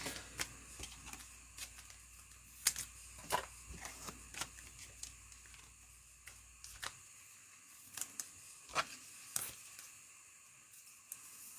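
Trading cards and packs being handled on a table: scattered light clicks and snaps, about a dozen, at irregular intervals.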